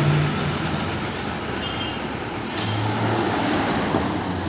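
Busy city road traffic: motor vehicles passing close by, with a steady wash of engine and tyre noise. Engine hum swells as vehicles go by near the start and again about three seconds in.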